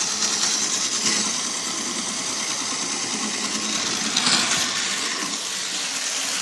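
Bachmann HO scale model locomotive and its cars running on the track: a steady whirring rattle of the small electric motor and wheels on the rails.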